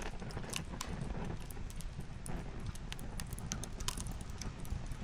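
Wood fire crackling: irregular sharp pops and snaps from burning logs over a steady low rumble.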